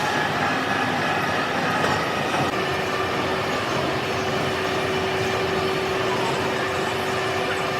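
Metalworking machine tool running steadily: a continuous mechanical clatter with a steady whine.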